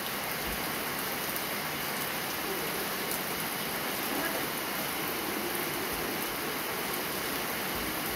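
Steady rain falling on wet pavement, with water streaming off a roof edge.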